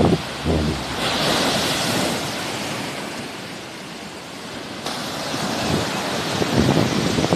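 Sea waves washing onto the shore, the hiss of surf swelling about a second in and easing off around five seconds in. Wind buffets the microphone in low gusts at the start and again near the end.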